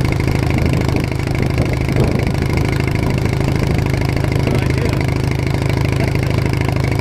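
Bolens HT20 garden tractor engine running steadily, heard close up from the tractor while riding.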